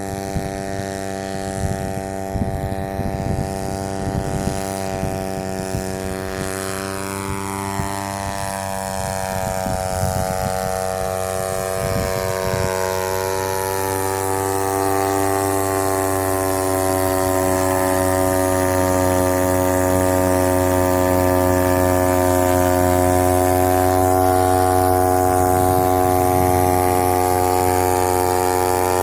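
Homemade paramotor powered by a used Yamaha motorcycle engine, running with its propeller turning. The revs climb about seven seconds in and then hold steady at a higher speed, growing slightly louder, with some crackling in the first dozen seconds.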